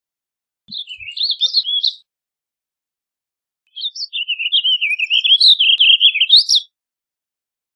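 Warbling vireo singing: two rapid, rambling warbled phrases of quickly rising and falling notes, a short one about a second in and a longer one of about three seconds from about four seconds in.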